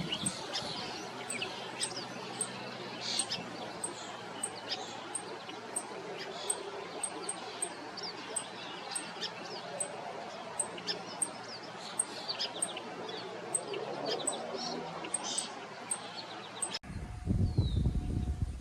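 Several wild birds chirping and calling over a steady outdoor hiss, with a thin high tick repeating about twice a second. Near the end the sound cuts off abruptly to a louder, low rumbling noise.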